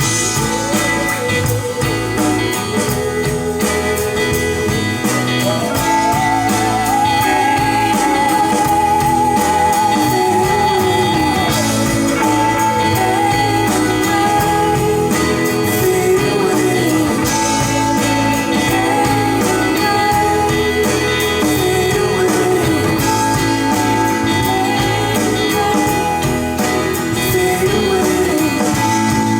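Song played back through DALI Zensor 1 bookshelf loudspeakers: a wordless passage with guitar and a wavering, held lead melody over a steady accompaniment.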